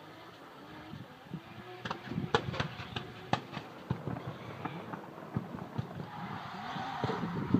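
Nissan Silvia's swapped-in 2JZ inline-six revving up and down, with scattered sharp pops. It grows louder toward the end.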